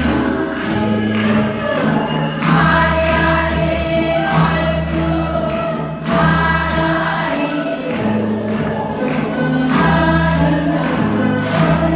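Voices singing together over accompanying music with a bass line and a steady beat.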